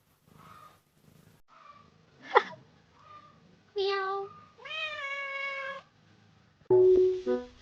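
A cat meows twice, a short meow and then a longer, drawn-out one, after a single sharp click. Music with plucked or keyboard-like notes starts near the end.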